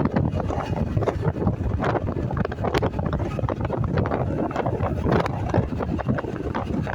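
Wind rushing and buffeting over the microphone on a moving motorcycle, with a steady low rumble of engine and road noise underneath.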